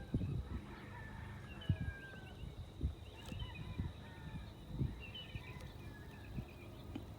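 Faint chirps and twitters of small birds, with a few scattered low knocks and thumps from handling.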